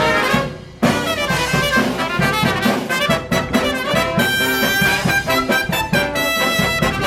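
Small live brass band playing an upbeat tune. The sound drops away for a moment shortly after the start, then the band comes back in.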